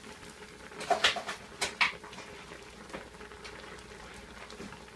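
Covered pot of soup simmering on the stove, with a few sharp clicks and knocks about one and two seconds in and fainter ones near three and four and a half seconds.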